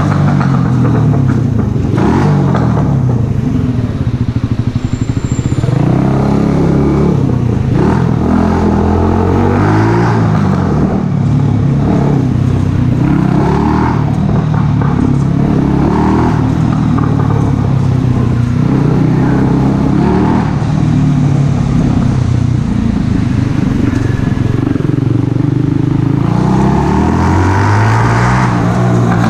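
Mash Cafe Racer 125cc single-cylinder motorcycle engine running through a Megaton aftermarket exhaust. The revs rise and drop again every couple of seconds.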